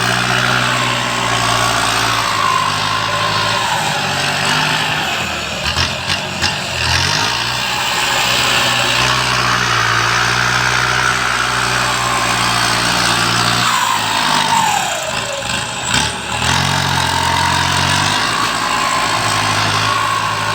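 Engine of heavy earth-moving machinery (tractor or dump truck) running under changing load, its pitch rising and falling. The low hum drops away briefly twice, about six and fourteen seconds in.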